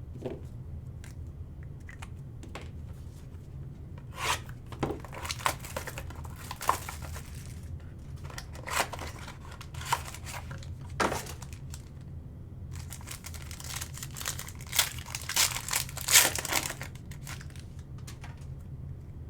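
Wrapper on a pack of football trading cards being torn open and crinkled, in irregular bursts of tearing and rustling.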